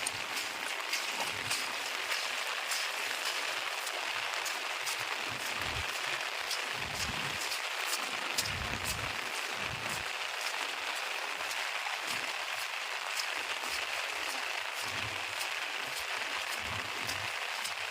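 Steady rain falling, a constant hiss dotted with many sharp ticks of drops striking nearby.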